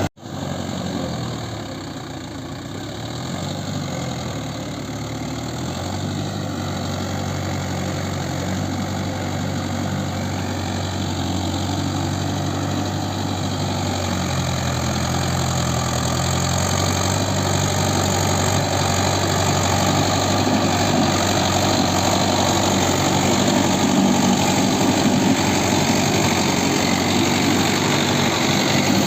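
Mahindra Yuvo 575 4WD tractor's diesel engine running steadily, growing gradually louder, after a brief drop-out at the very start.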